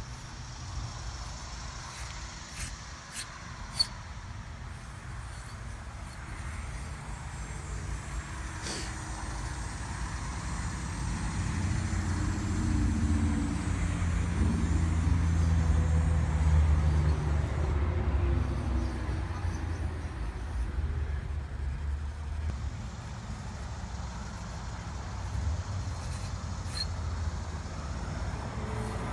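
A road vehicle passing: a low engine rumble swells over several seconds, is loudest around the middle, then fades. A few sharp clicks come in the first few seconds.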